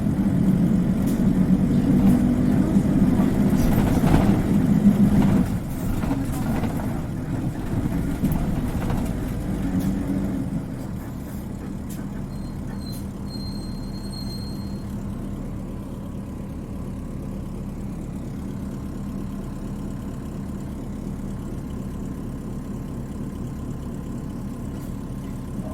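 Isuzu Cubic KC-LV380N city bus engine heard from inside the cabin, running loudly for the first five seconds or so. It then eases off and settles to a steady, quieter idle from about ten seconds in.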